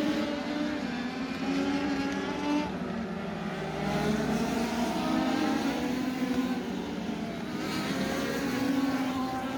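Legends race car's motorcycle-based four-cylinder engine running hard on track, its pitch dropping about three to four seconds in as it lifts off, then climbing again under power.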